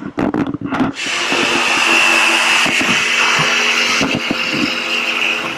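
A power tool running steadily from about a second in, a high whine over a hiss, easing off near the end. A few short knocks come before it.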